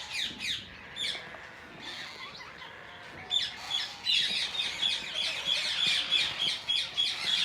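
Ringneck parrot chicks squawking in a rapid, repeated chatter of short shrill calls. The calls thin out about a second and a half in, then resume densely from about four seconds in.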